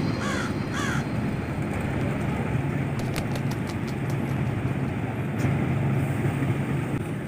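A bird calling several times in quick succession, stopping about a second in, followed by a steady low hum with a few faint clicks.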